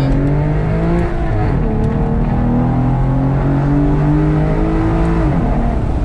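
Aston Martin DBS V12 engine heard from inside the cabin, pulling hard under acceleration. Its pitch climbs, drops with a gear change about a second and a half in, then climbs steadily again before falling away near the end.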